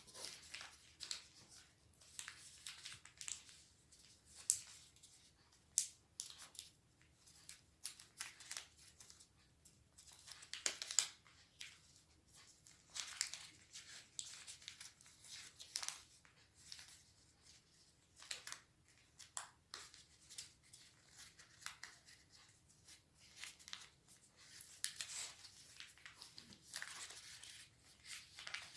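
A sheet of origami paper being handled and folded by hand: intermittent rustles, crinkles and sharp creasing snaps, irregular and unhurried, with quiet gaps between them.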